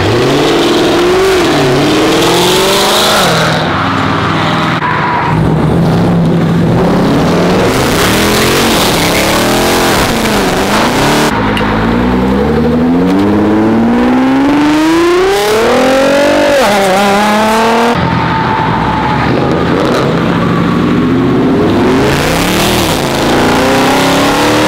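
Several performance cars, among them a Nissan GT-R, accelerate hard past one after another. Their engine notes rise and fall as they rev through the gears, and the longest climb in pitch comes around the middle.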